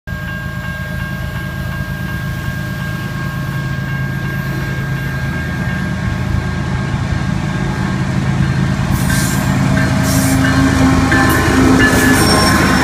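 Diesel freight train approaching and passing, led by a GE ES44C4 locomotive: the engine's low rumble grows steadily louder, and sharp clicks and knocks from the wheels on the rails join in during the last few seconds as the locomotive comes alongside.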